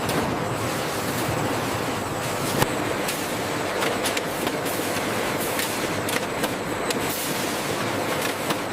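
Food-factory processing machinery running steadily: a constant mechanical hum with irregular clicks and clatter.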